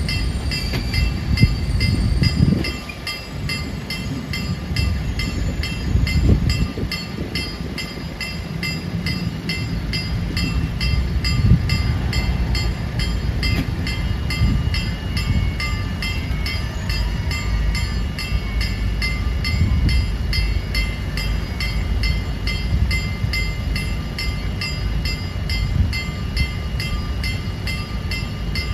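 PKP Intercity passenger coaches rolling past over a level crossing, a steady low rumble with occasional knocks of the wheels over the rail joints. Over it, a level-crossing warning bell rings in rapid, even strokes throughout.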